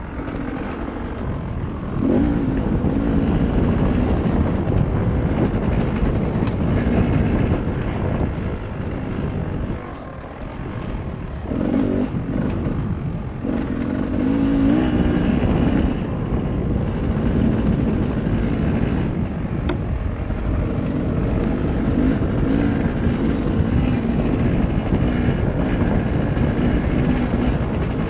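Dirt bike engine running as it is ridden, the throttle opening up about two seconds in, easing off a little before ten seconds, and opening up again around twelve seconds.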